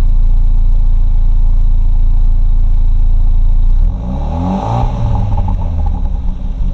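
2016 Hyundai Veloster Turbo's 1.6-litre turbocharged four-cylinder running steadily through its stock exhaust after a cold start. About four seconds in, the sound abruptly turns quieter and the engine note rises and falls in pitch.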